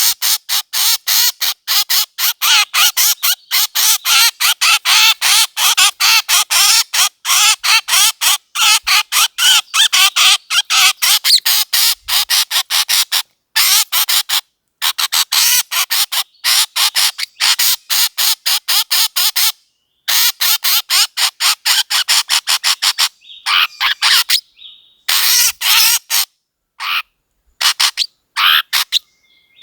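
A bird call played back as a hunting lure: fast, repeated squawking chirps, about three or four a second, in long runs with short breaks that become more broken near the end.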